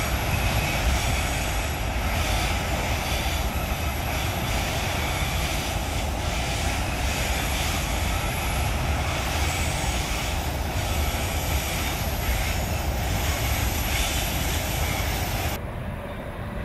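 Long freight train of loaded hopper wagons rolling across a steel girder viaduct: a steady, heavy rumble with diesel engine drone in it. About a second before the end the sound drops and turns duller, losing its high rattle.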